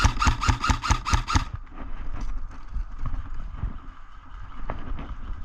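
Airsoft gun firing a quick string of about seven shots within the first second and a half, followed by low, irregular knocks and rumble.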